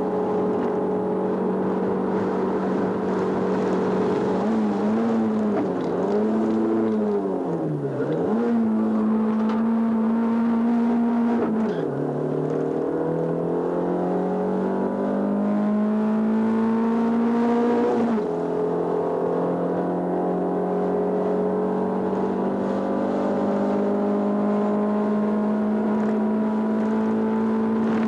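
Race car's engine heard from inside the cabin, driven hard up a twisting road. The note holds steady, wavers down and up about five to eight seconds in, then rises through the revs. It drops sharply about twelve and eighteen seconds in as it changes gear, climbing again after each shift.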